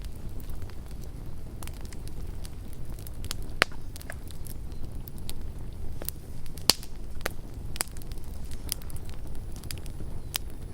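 Wood campfire burning with a low steady rumble and scattered sharp crackles and pops, two louder snaps about a third and two thirds of the way in.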